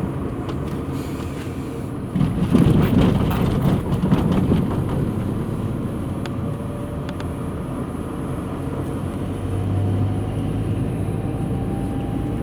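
Steady vehicle rumble, swelling louder for a few seconds about two seconds in, with a faint slowly rising whine near the end.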